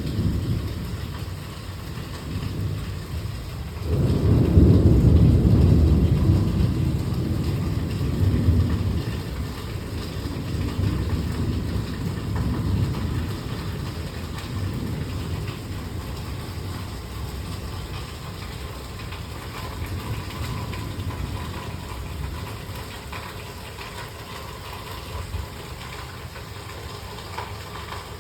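Thunder rolling in a heavy thunderstorm: a loud low rumble rises suddenly about four seconds in and dies away slowly over several seconds, with weaker rolls after it. Rain hisses steadily underneath.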